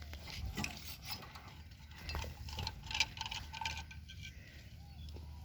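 Scattered light mechanical clicks and clanks from hands working on a stalled power tiller during a start attempt; the engine does not fire.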